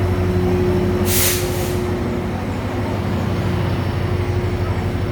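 Diesel locomotive of a passenger train running with a steady low engine hum, with a short hiss of released air from the brakes about a second in.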